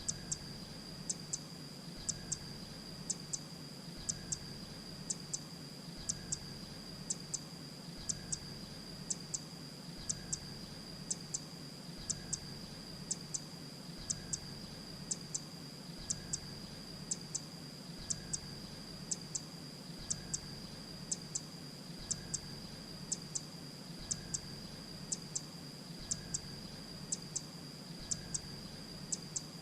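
Grey-breasted prinia call played on a loop: short high notes in quick pairs, repeating about once a second at an even level, over a steady high-pitched tone.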